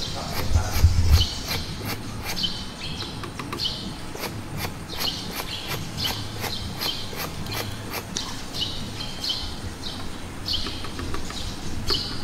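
Small birds chirping over and over in short, falling chirps, with a brief low rumble about a second in.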